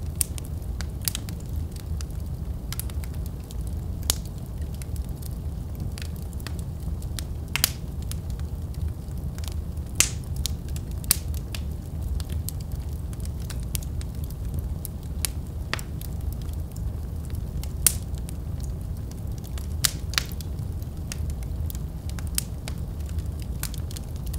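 Wood fire burning in a fireplace: a steady low rumble of flames with irregular crackles and sharp pops, a few louder snaps standing out.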